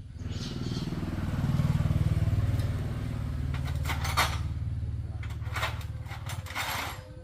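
Motorcycle engine running, its sound swelling over the first two seconds, then holding steady and easing off near the end, with a few metallic clanks about four seconds in.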